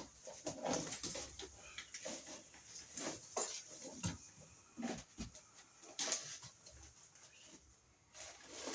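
A series of irregular knocks, taps and rustles, several a second at times.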